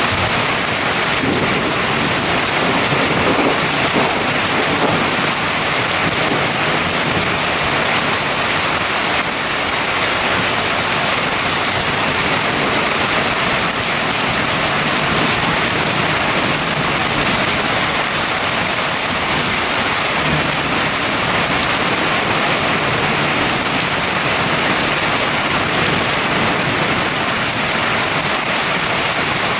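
Heavy rain falling steadily in a thunderstorm, an even hiss with no distinct thunderclaps.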